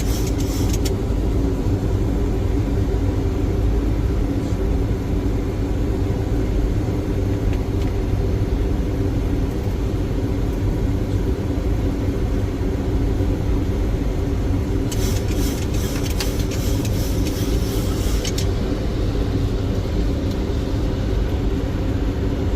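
Steady cockpit noise of a Boeing 737 on approach: a constant low rumble of airflow and engines with a few steady hum tones. About fifteen seconds in, a burst of crackling noise lasts roughly three seconds.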